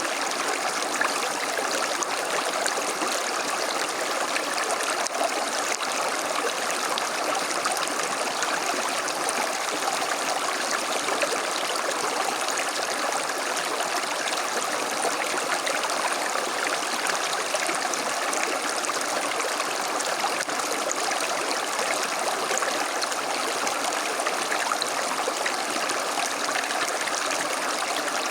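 A small stream flowing and babbling over stones, an even, unbroken rush of water.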